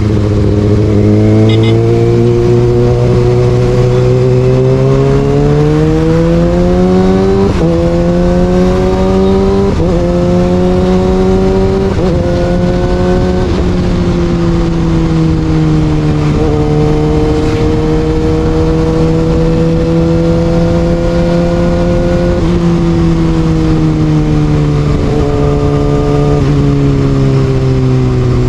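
Kawasaki Ninja ZX6R's inline-four engine through an Austin Racing aftermarket exhaust. It revs up through several upshifts, about 7, 10 and 12 seconds in, then holds fairly steady revs and eases off near the end.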